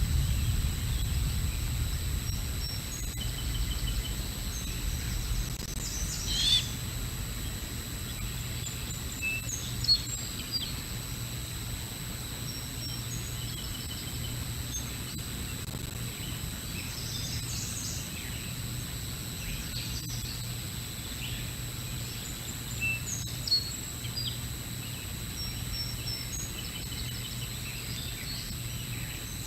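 Scattered short calls and chirps of small birds, sounding every second or two, over a steady low hum and a thin high electronic whine from the nest-cam microphone.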